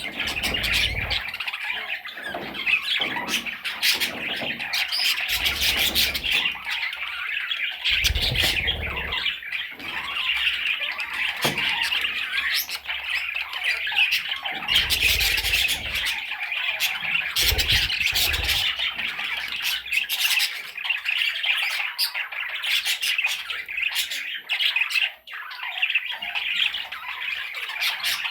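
Budgerigar chattering and squawking without pause, a busy stream of scratchy warbles and sharp clicks, with a few dull low thumps in the first twenty seconds.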